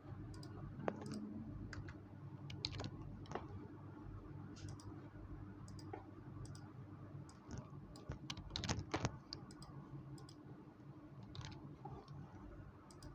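Scattered light clicks and taps over a low steady hum, with a quick cluster of louder clicks about nine seconds in.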